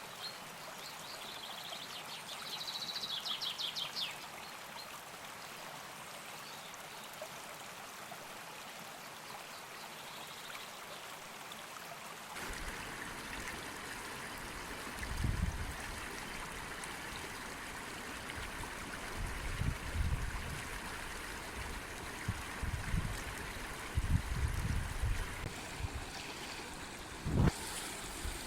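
River water running steadily, the rush changing abruptly about twelve seconds in. A brief rapid high trill about three seconds in, and several low thumps in the later part.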